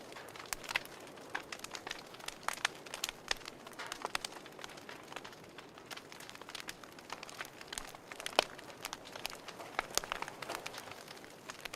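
Wood fire crackling: irregular sharp pops and snaps over a soft hiss, with one louder pop about eight seconds in.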